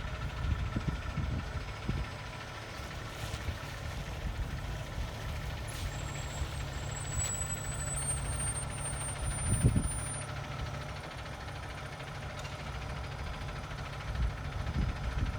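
Fire engine's diesel engine running with a steady low rumble, swelling briefly about ten seconds in; no siren is sounding.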